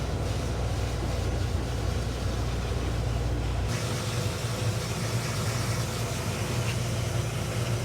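Pet blow dryer running: a steady motor hum under rushing air. About four seconds in, the deepest part of the hum drops away and the airy hiss turns brighter.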